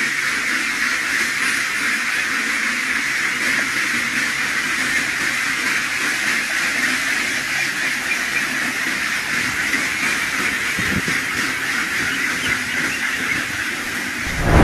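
A steady hiss, even and unbroken, strongest in the upper-middle range.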